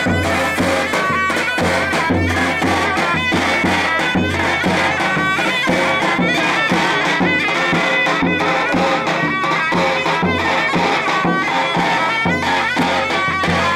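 Loud Turkish folk music: a shrill reed pipe plays a wavering melody over regular, heavy drum beats.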